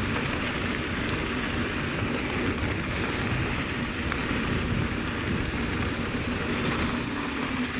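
Wind rushing over the microphone and knobby mountain bike tires rolling on a dirt trail while riding downhill, a steady noise throughout. A high, fast ticking starts near the end.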